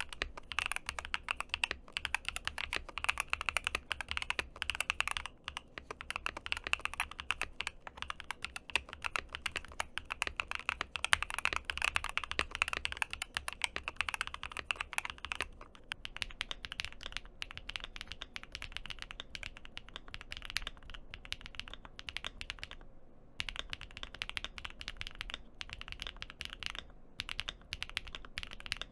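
Steady, fast typing on a mechanical keyboard, a rapid stream of key clacks. About halfway through, the keystrokes become sparser and lighter.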